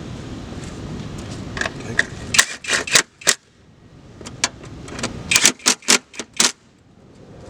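Sharp metallic clicks and clinks in two quick clusters, a handful each, with a few single ticks between. A low background hum drops out about two and a half seconds in.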